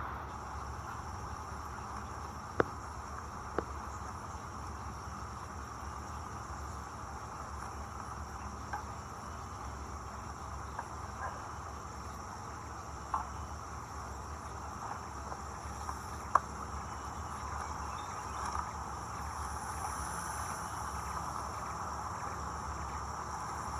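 Steady chirring of crickets and other insects, with a few sharp clicks or snaps here and there.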